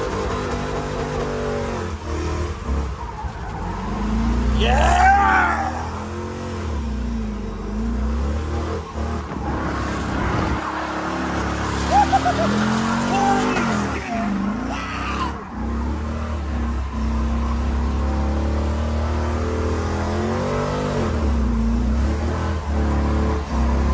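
Truck engine held at high revs during a burnout, its pitch swinging up and down again and again, with tyres spinning and squealing under a heavy low rumble. A voice yells once about five seconds in.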